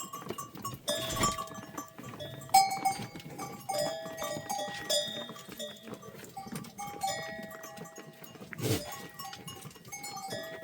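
Bells on a flock of sheep and goats clinking irregularly as the animals move, with two brief louder noises, about a second in and again near the end.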